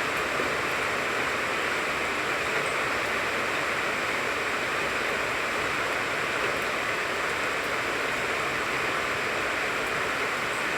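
Steady rain falling on a tangerine tree: a dense, even hiss with no breaks.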